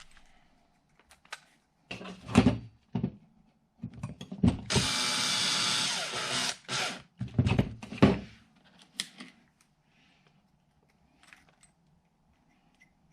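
Power drill driving small button-head screws into plastic RC truck frame parts: one steady run of about two seconds near the middle, with clicks and clatter of the parts and tool being handled before and after.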